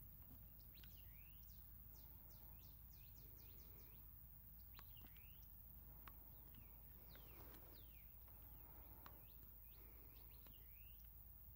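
Faint bird calls: a quick series of short, high down-slurred chirps, then scattered chirps and whistles, over a steady low hum.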